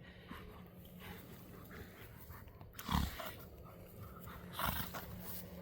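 Two dogs play-fighting, panting and scuffling, with a short loud outburst about three seconds in and a smaller one about a second and a half later.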